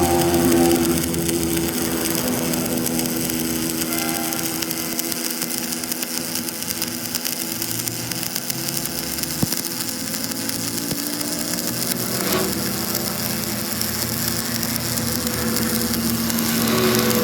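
A power tool running steadily under load, its motor pitch drifting slightly now and then.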